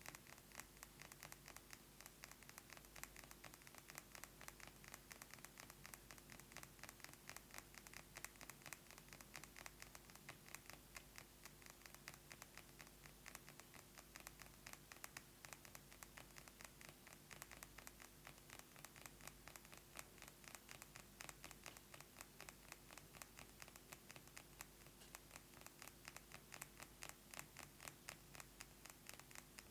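Rapid fingernail tapping on a perfume bottle: a dense, steady run of quick light clicks, many a second, without pause.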